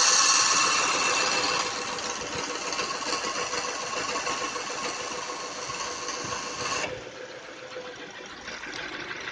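AC compressor of a 2012 Subaru Impreza 2.0i running at idle with a loud whirring grind, a sign of a failing compressor. The grind cuts off suddenly about seven seconds in, leaving the quieter engine idle.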